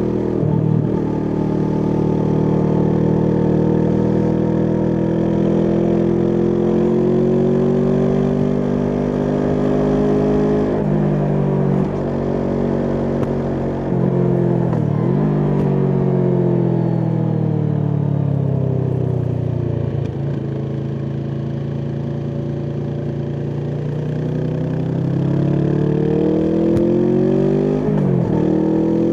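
Kawasaki Vulcan S parallel-twin engine through an Arrow aftermarket exhaust, pulling and easing off on a ride. Its pitch climbs and falls repeatedly, with several brief sharp dips where the revs drop and then climb again.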